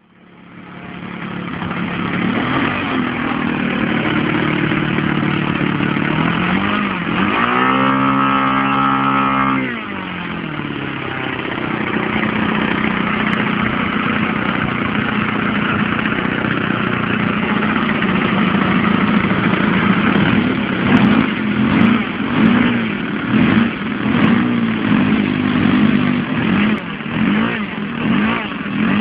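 SC91FS four-stroke glow engine of a model Spitfire running on a test stand during warmup. It revs up about seven seconds in and drops back at around ten seconds, and from about twenty seconds the throttle is blipped up and down repeatedly.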